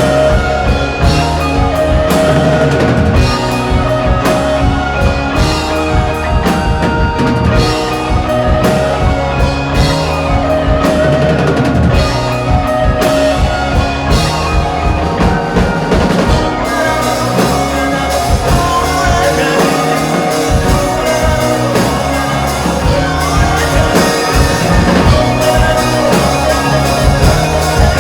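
A rock band playing live, drum kit and guitars, with a steady drum beat throughout; about two-thirds of the way in the cymbals wash more continuously.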